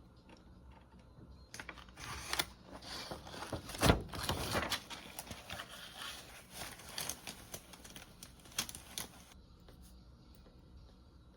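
Close handling noises: a run of rustles, clicks and taps lasting several seconds, with one louder knock a few seconds in.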